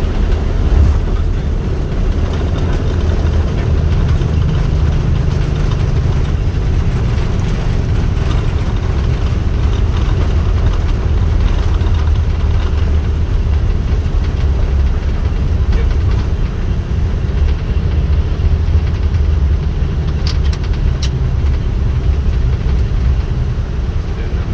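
Airbus A320 rolling out on the runway after touchdown, heard from the cockpit: a loud, steady low rumble of the engines and wheels on the runway.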